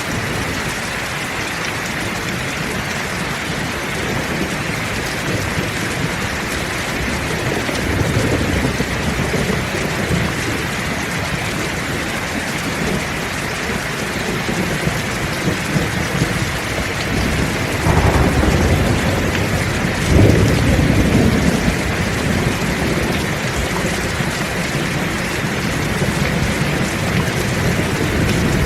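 Heavy rain falling steadily in a thunderstorm, with rolls of thunder rumbling about eight seconds in and again, louder, about two-thirds of the way through.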